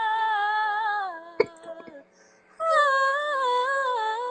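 A woman singing a cappella, holding a long note that fades out about a second in. A sharp click follows, then a brief pause, and she comes back in with a new, wavering sung line.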